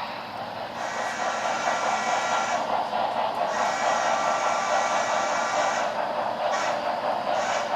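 HO-scale model steam train running, a steady rushing hiss with no deep tones and no distinct chuffs; the highest part of the hiss cuts in and out a few times.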